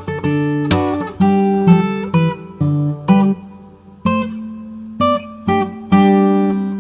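Background music: acoustic guitar plucked and strummed.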